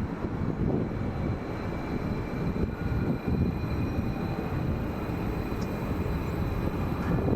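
Train running along the platform: a steady rumble with faint, thin high whines held above it.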